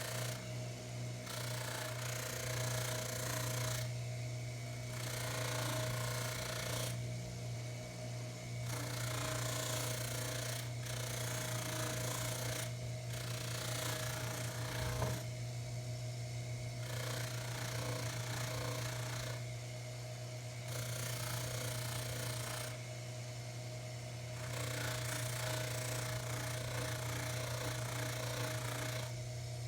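Baldor 353T dental lathe running at steady speed with a constant hum, while a tobacco pipe stem is pressed against the buffing wheel and lifted off again every few seconds, giving an on-and-off hissing rub. The stem is being buffed with tripoli compound to take off oxidation. One light knock about halfway through.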